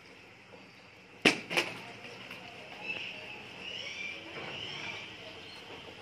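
Two sharp clicks about a third of a second apart, just over a second in, then soft, high bird chirping for a couple of seconds.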